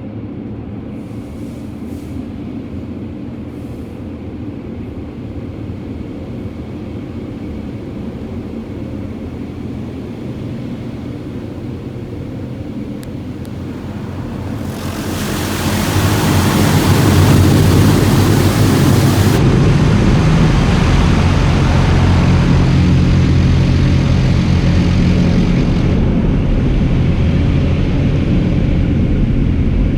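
Oasis BayWash i5 in-bay automatic car wash running, heard from inside the car: a steady low rumble from the machine, then about halfway through a loud hiss of spray hitting the car for several seconds, followed by a louder, steady rumble with spray.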